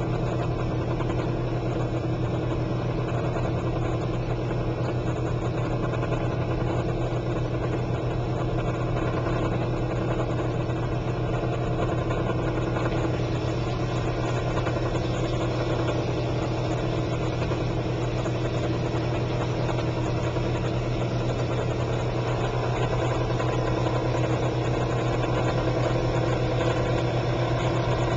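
A 1957 James portable dishwasher running: a steady low motor hum with water churning and spraying inside the tub.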